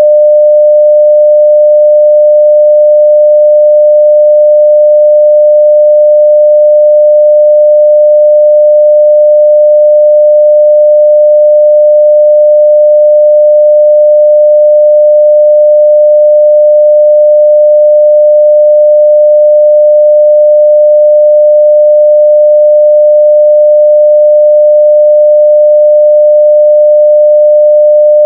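A continuous 600 Hz sine-wave test tone at full level (0 dB): one pure, steady pitch that does not change.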